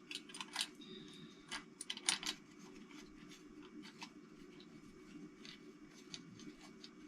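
Scattered light clicks and taps of small metal engine parts being handled and removed, busiest in the first two seconds and sparser after, over a steady low hum.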